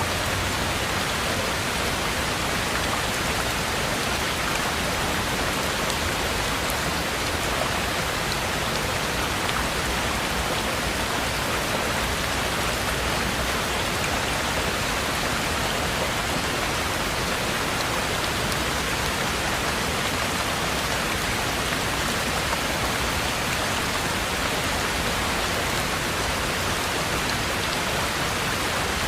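Heavy rain falling steadily, a dense even hiss with fine drop patter and no let-up.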